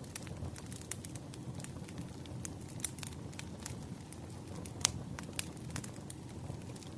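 Burning firewood crackling: a steady low rumble of the fire with frequent irregular pops and snaps, one louder snap about five seconds in.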